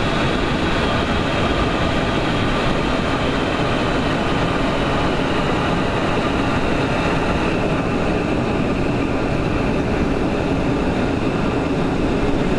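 Boeing 727's three rear-mounted JT8D engines running in reverse thrust during the landing roll, with the rumble of the wheels on the runway, heard from the cockpit as a loud, steady roar. A faint high whine eases off about two-thirds of the way through as the aircraft slows.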